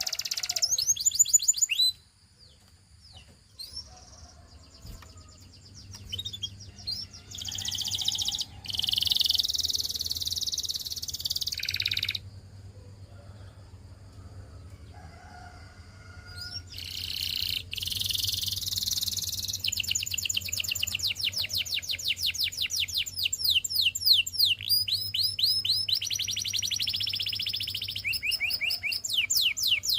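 Domestic canary singing: fast trills of rapidly repeated high notes. The phrases come in bursts, with quieter pauses after the first couple of seconds and again from about 12 to 17 seconds, and a long unbroken run of song through the last part.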